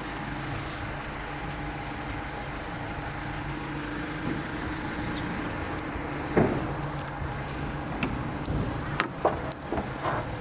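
Audi A3 engine idling steadily, with a single knock about six seconds in and several sharp clicks near the end.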